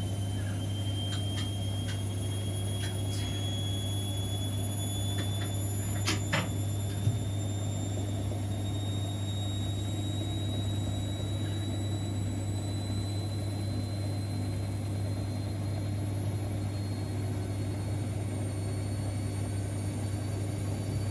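Siemens Extraklasse XLs 140 A front-loading washing machine running mid-wash: a steady low hum with a thin high whine that rises slowly in pitch, a few light clicks, and a single knock about seven seconds in.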